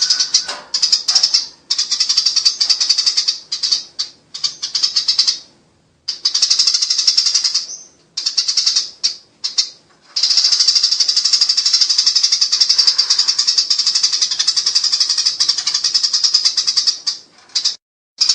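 Eurasian tree sparrows giving a rapid, high, churring chatter, the agitated call of sparrows fighting. It comes in runs of a second or two broken by short gaps, with one long unbroken run of several seconds in the middle.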